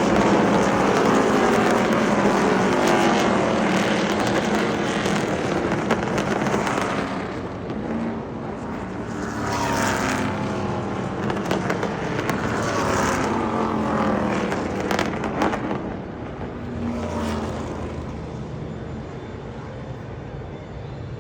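NASCAR Craftsman Truck Series race trucks' V8 engines running at speed, several passing one after another with their pitch falling as each goes by, and a few sharp clicks in between. The engine noise slowly fades toward the end.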